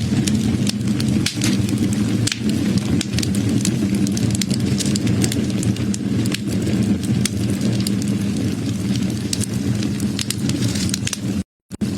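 Wood fire burning, with frequent sharp crackles and pops over a steady low rush of flame. The sound cuts out completely for a split second near the end.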